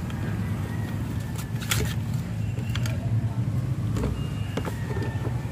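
A few sharp clicks of plastic wiring connectors and parts being handled as a fuel pump is unplugged and lifted out, over a steady low drone in the background.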